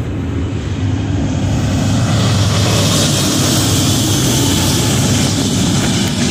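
Freight train passing close by: a BNSF diesel locomotive's engine drones under the steady noise of steel wheels on the rails. The rushing hiss grows louder about two seconds in.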